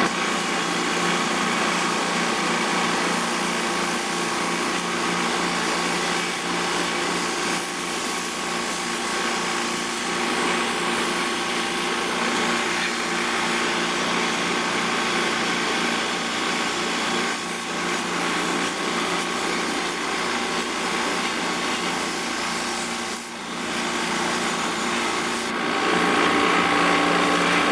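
A motor-driven sprayer runs steadily with a hiss of spray over a constant motor hum while the air conditioner is being washed out, dipping briefly near the end.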